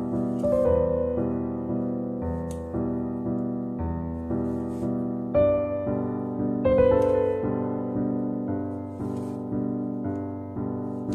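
Background piano music: notes and chords struck at an unhurried, steady pace, each one fading before the next.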